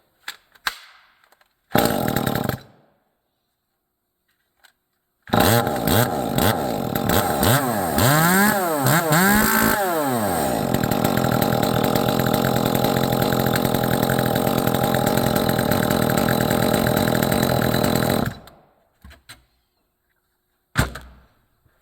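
Echo CS-2511T two-stroke top-handle chainsaw fitted with a Precision Saw Service billet muffler: a short burst of engine sound, then the saw starts and is blipped up and down several times before running steadily for about eight seconds and shutting off abruptly.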